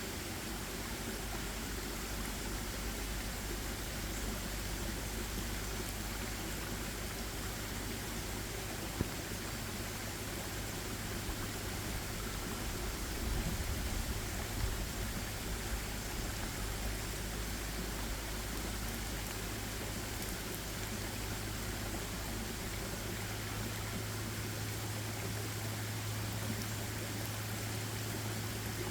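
Steady, even hiss with a low hum underneath that gets stronger in the second half, and a couple of faint ticks.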